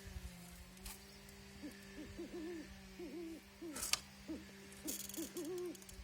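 Bird cooing: many short, low rising-and-falling notes in small clusters, over a steady low hum. There is a sharp click about four seconds in.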